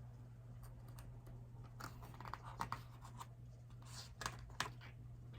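Paper picture-book pages being handled and turned: a couple of clusters of soft rustles and crisp clicks, over a steady low hum.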